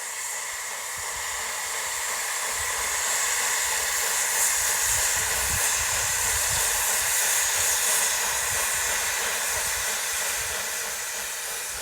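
Wind blowing: a steady hiss that swells through the middle and eases near the end, with gusts rumbling on the microphone.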